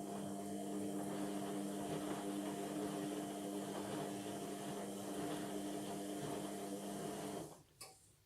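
Indesit washing machine running mid-cycle with a steady hum, cutting off about seven and a half seconds in, followed by a click.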